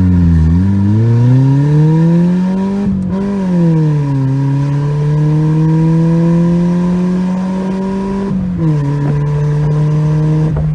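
Mitsubishi Lancer's 2.0-litre four-cylinder engine accelerating hard through the gears of its five-speed manual gearbox on a 0 to 60 run. The engine pitch rises in each gear and drops sharply at upshifts about 3 s and 8.5 s in.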